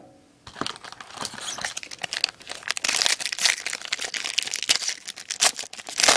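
Foil wrapper of a baseball card pack being torn open and crinkled by hand, a dense irregular crackling that starts about half a second in.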